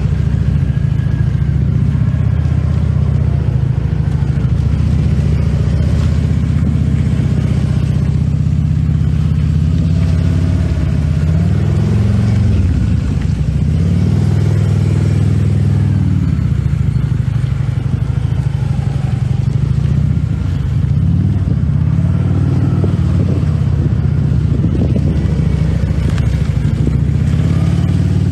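Harley-Davidson V-twin engine of a 2015 Ultra Limited Low running loudly and steadily. Its pitch rises and falls a few times as the throttle is worked, about ten seconds in and again from about twenty seconds.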